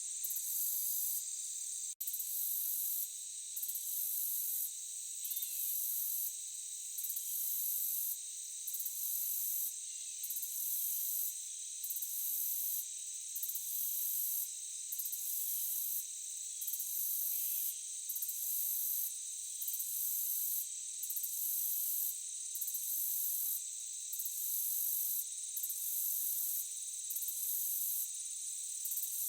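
A dense chorus of insects trilling, high-pitched and continuous, with a top layer that pulses and pauses briefly about every second or so. The sound cuts out for an instant about two seconds in.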